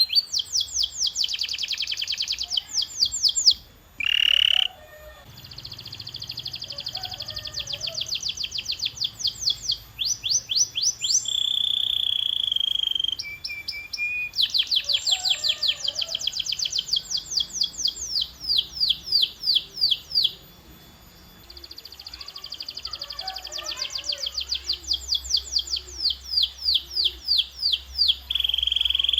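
Domestic canary singing: long runs of fast, evenly repeated notes, each run on a new syllable, with a held whistled note midway. The song breaks briefly about four seconds in and for about a second around 21 seconds.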